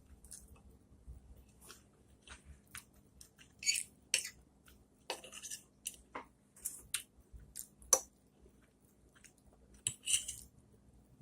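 A person eating into a close microphone: chewing and wet mouth smacks, as short, sharp clicks at irregular times.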